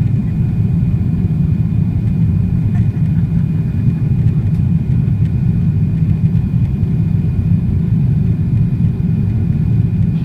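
Steady low rumble of a Boeing 777-300ER's engines and airflow heard inside the passenger cabin, with a faint steady high tone above it.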